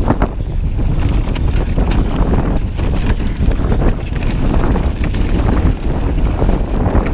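Strong wind buffeting the microphone with a loud, steady rumble, over the scattered knocks and rattles of a full-suspension mountain bike riding down a rocky trail.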